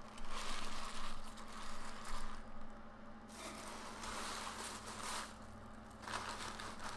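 Paper wrapping and a bag rustling as a sandwich is stuffed back into its bag, in three bursts with short pauses between.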